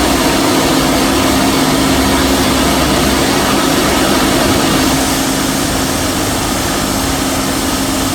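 Hydraulic rock drills of a tunnel drill jumbo drilling blast holes into the rock face: a loud, steady mechanical din with a constant hum, easing slightly a little after halfway.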